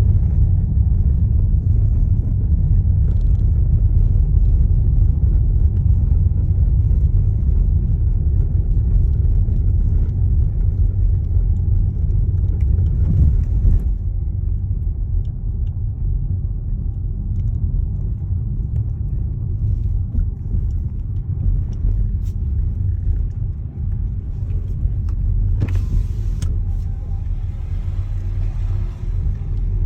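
A TOGG T10X electric SUV on the move: a steady low road rumble of tyres on the road, with no engine note. The rumble eases a little about halfway through, and there is a brief sharp click near the end.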